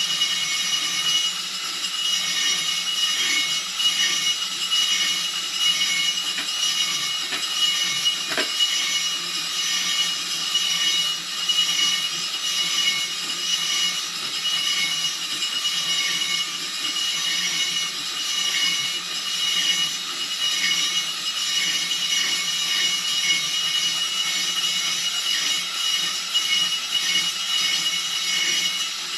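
Cylinder hone running in the rust-caked cylinder bore of a 1973 Honda CB450 engine: a steady grinding rasp with a high whine as the hone's stones scrape out the rust, which is heard most toward the top of the bore.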